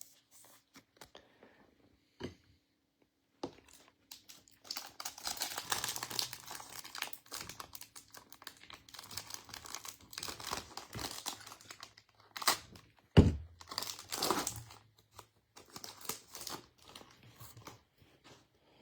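Foil trading-card pack wrapper being torn open and crinkled, with a single sharp thump partway through and lighter rustling afterwards.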